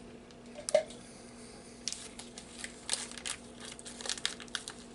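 Faint, irregular mouth clicks and smacks of someone chewing a piece of soft, chewy baklava whose phyllo has no crunch.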